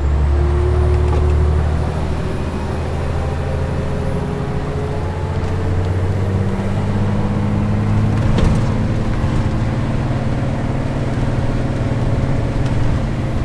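Scania R420 truck's inline-six diesel engine running steadily, its note rising about halfway through. A single sharp knock comes about eight seconds in.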